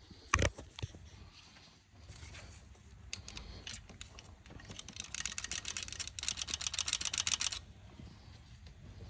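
Hand-tool work on a car engine: a sharp knock about half a second in, scattered clicks, then about three seconds of rapid clicking that stops suddenly.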